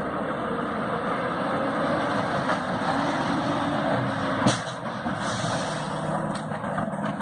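Motor vehicle running on the road: a steady engine hum under road noise, with one sharp knock about four and a half seconds in, followed by a brief hiss.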